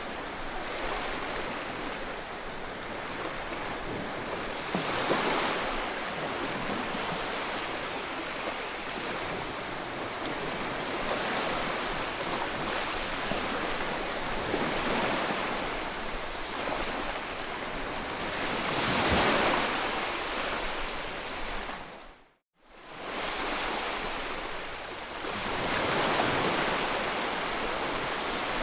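Sea waves breaking and washing ashore, a steady rush that swells as each wave comes in every few seconds. About two-thirds of the way through, the sound cuts out for a moment and fades back in.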